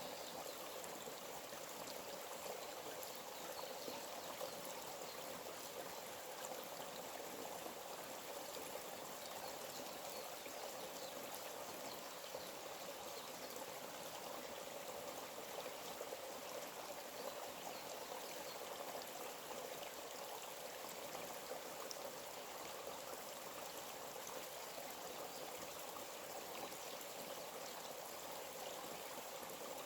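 A forest stream running steadily, a continuous rushing and trickling of water.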